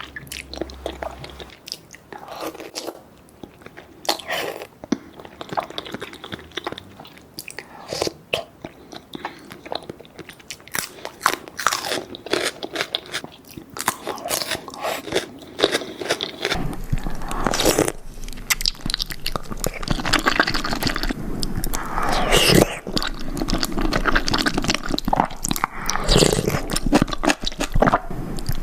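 Close-miked eating: irregular biting, crunching and chewing of food, busier and louder in the second half.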